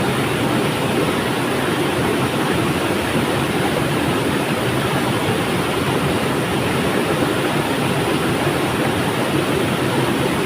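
River water flowing and rushing: a steady, even noise without any change.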